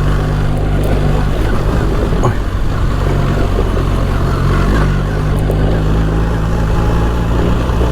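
BMW R 1300 GS boxer-twin engine running at steady revs while the motorcycle is ridden along a rough trail, with wind and road noise underneath.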